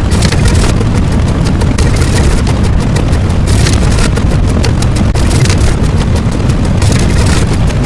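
A loud, distorted, steady roar of dense noise, heaviest in the low rumble, with no break and no clear pitch.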